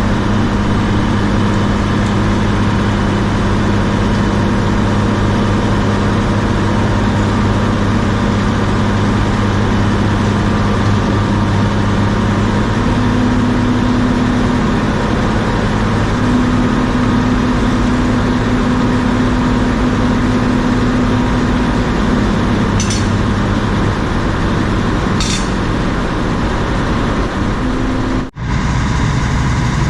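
Heavy diesel engine running steadily, its pitch stepping up for several seconds in the middle before settling back. Two short clicks come near the end, and the sound cuts out for an instant just before the end.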